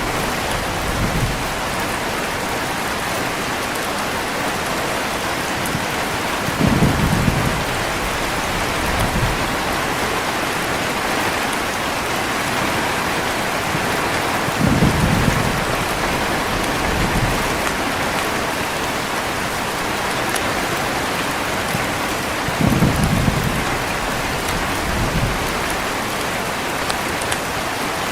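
Heavy rain falling steadily, with short low rumbles of thunder about every eight seconds, each followed about two seconds later by a softer one.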